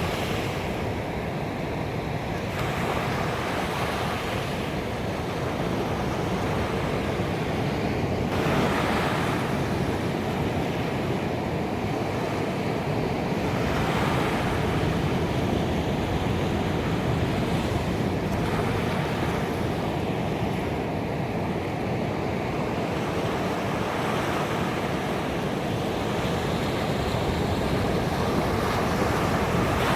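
Ocean waves breaking on a beach: continuous surf noise that swells with each wave, about every five to six seconds.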